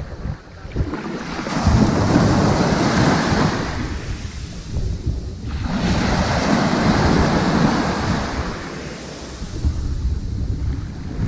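Ocean waves washing softly onto a sandy beach: two surges of surf, each swelling and then fading as the water draws back, over a steady low rumble.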